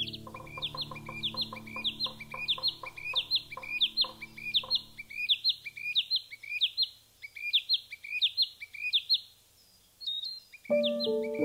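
A bird calling in a fast, even series of short high notes, about three a second, pausing briefly before the end. Under it, soft piano music fades out in the first half and comes back in near the end.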